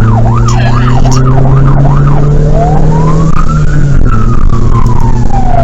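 Emergency vehicle siren in a fast up-and-down yelp that changes about two seconds in to a slow wail, rising and then falling, over the steady drone of a vehicle engine.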